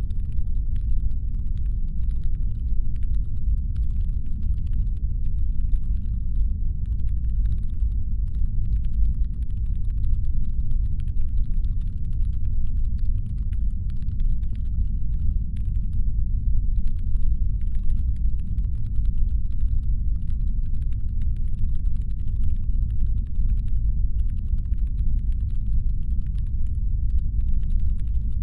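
Deep, steady brown-noise rumble, a synthetic spaceship engine hum, with faint rapid irregular clicking layered over it. The clicking drops out for a moment a little past halfway.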